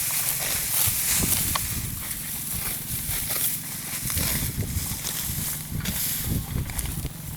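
Dry wheat stalks rustling and crunching, with a steady hiss of many small crackles.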